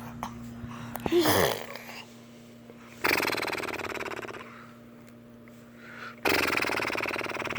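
Noises made with the voice, traded back and forth: a short falling sound about a second in, then two long raspy, buzzing noises, one about three seconds in and one about six seconds in, each fading away. A steady electrical hum runs underneath.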